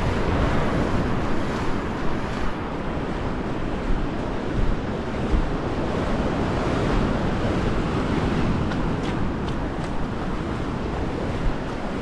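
Sea surf washing onto the shore, with wind buffeting the microphone in low gusty rumbles.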